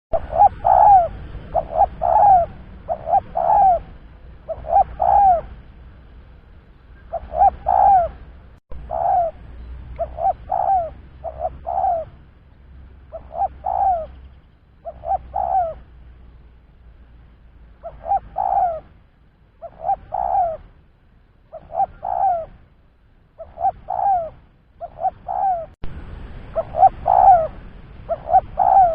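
Spotted dove (tekukur) cooing over and over, in short phrases of two or three notes with brief pauses between them, as used for a lure call. A faint low hum lies underneath.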